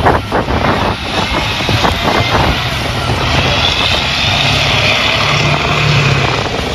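A motor running steadily under a loud rushing hiss, with several short knocks in the first couple of seconds.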